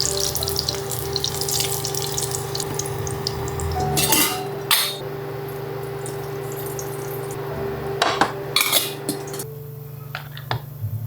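Food sizzling in a frying pan for the first few seconds, then cookware and utensils clattering in two short bursts, about four and eight seconds in. A steady hum underneath stops shortly before the end.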